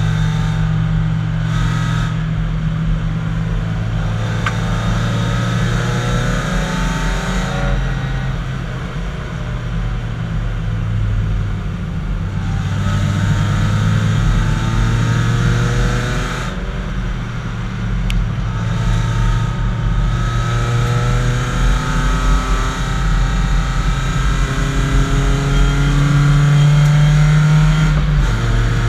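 BMW 318i race car's four-cylinder engine heard from inside the cabin, rising in pitch as it accelerates and dropping at each gear change, several times over, with road and wind noise underneath.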